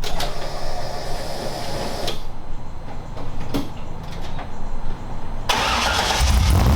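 A few sharp clicks and knocks over a low rumble, then a loud rush and a car engine running strongly in the last second or so.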